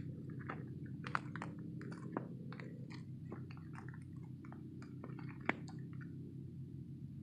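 Footsteps crunching on desert gravel: a run of irregular crunches and clicks, a few sharper ones standing out, over a steady low rumble.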